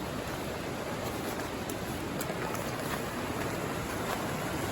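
A mountain stream running, a steady rush of water.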